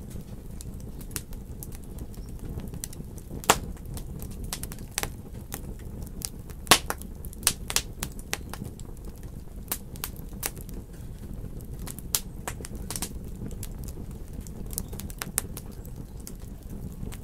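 Wood fire crackling in a fireplace: a steady low rumble of the flames with frequent sharp pops and snaps, two of them much louder than the rest, a few seconds apart.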